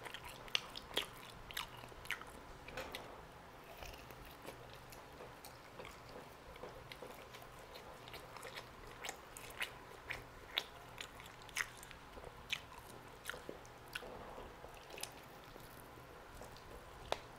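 Close-up sounds of a person biting and chewing a roast chicken drumstick: irregular wet mouth clicks and chewing noises.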